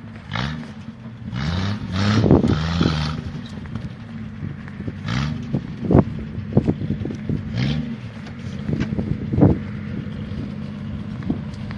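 1977 Jeep CJ5's engine revving up in short bursts several times while driving off-road, with sharp knocks and rattles twice, around the middle and two-thirds of the way through.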